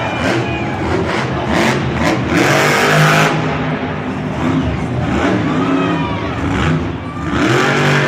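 Monster truck engine revving hard, its pitch rising and falling several times, with a loud rushing burst of noise about three seconds in.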